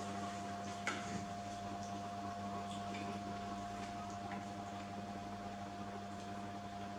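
Steady machine-like hum with a sharp click about a second in and a few faint high ticks.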